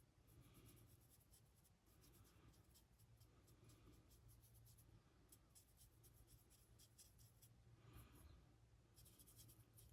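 Very faint paintbrush strokes on a 3D-printed resin figure: a soft scratchy swishing with small ticks as paint is worked into the creases, over a low steady hum.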